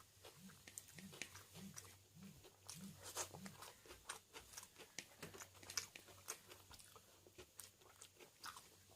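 Close-up chewing and crunching of food, with wet mouth clicks. The chewing keeps an even pace of about two chews a second for the first few seconds, then goes on less regularly.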